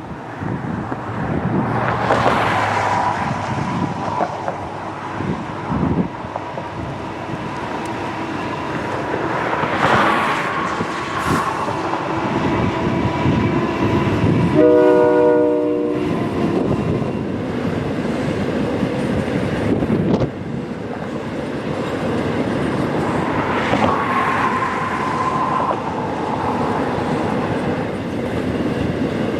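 Canadian National taconite (iron ore pellet) train rolling by, its steel wheels rumbling and clacking on the rails, with brief thin wheel squeals now and then. About halfway through, a train horn sounds once, briefly.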